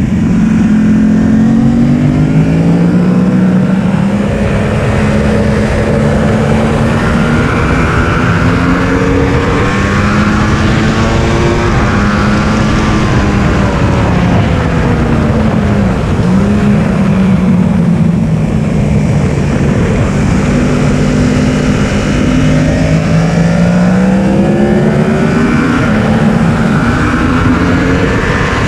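Yamaha R1 inline-four engine at full throttle on track, its pitch climbing through the gears and dropping sharply several times as the rider brakes and shifts down for corners.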